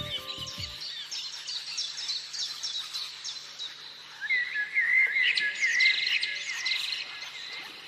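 Songbird singing: a run of quick high chirps, then from about four seconds in a louder, fast warbling song.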